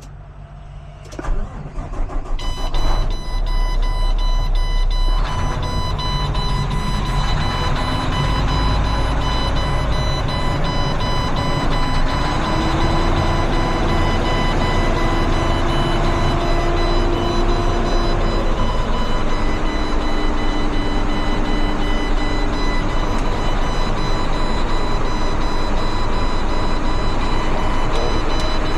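Heavy truck engine starting up about a second in, then running steadily, with a steady high-pitched tone over it.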